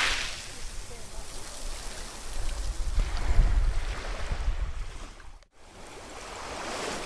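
Ocean waves breaking and washing up the shore: one wave's wash fades away, another surges a few seconds in, and a third builds near the end. The sound cuts out for an instant a little after halfway.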